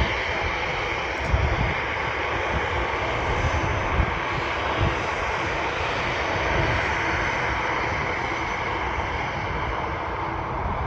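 Aircraft engines running, a steady rushing noise with uneven low rumbling underneath.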